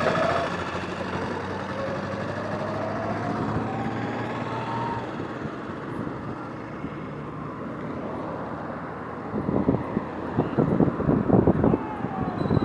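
Roadside traffic: vehicle engines running steadily, one rising in pitch as it pulls away. From about ten seconds in, a run of loud, irregular rumbling thumps.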